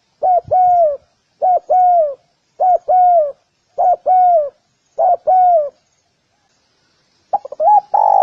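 Spotted dove cooing: a short note followed by a longer coo that falls off at the end, repeated about once a second, six times. After a short pause, a quicker run of notes comes near the end.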